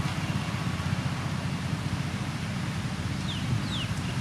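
Diesel engine of a heavy road-building machine running steadily with a low, even rumble. A few short, high, falling chirps come in near the end.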